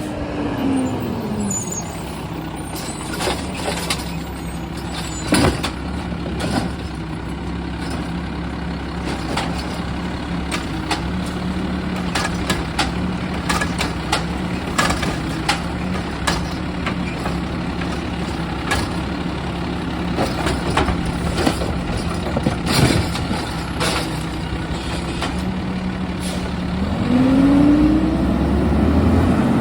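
Garbage truck engine running steadily, with many clanks and knocks throughout. The engine revs down in the first second or so and revs up again near the end.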